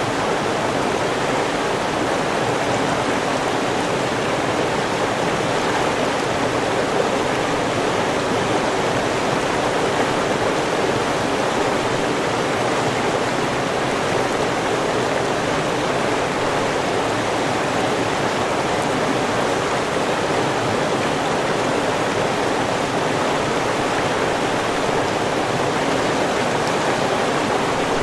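A river's flowing water rushing steadily, without pause or change.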